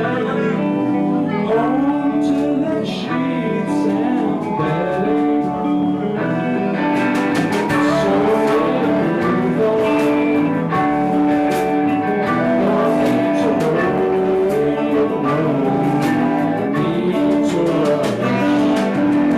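Live rock band playing a song: electric guitars and singing, with the drums and cymbals getting busier about seven seconds in.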